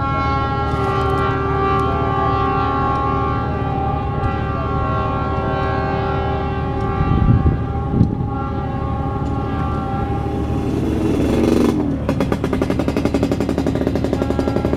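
Diesel-hauled passenger trains passing in the distance: a steady drone of several held tones over a low rumble from the locomotive. Two thumps come about seven and eight seconds in, and from about twelve seconds a fast, even clattering takes over.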